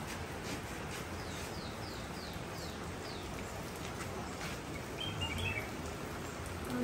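A bird calls a quick run of about six short, falling notes over a steady outdoor hiss, with another brief chirp a few seconds later.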